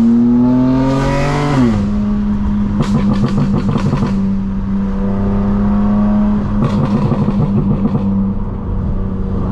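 Straight-piped BMW M4 Competition's twin-turbo inline-six accelerating, its pitch rising for about a second and a half and then dropping sharply, before running on at a steady pitch. Two short spells of rapid crackle come from the exhaust along the way.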